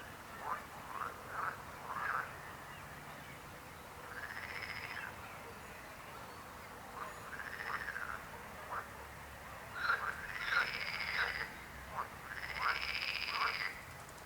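Frogs croaking: a quick run of short croaks in the first two seconds, then longer, arching calls every two to three seconds, several of them overlapping near the end.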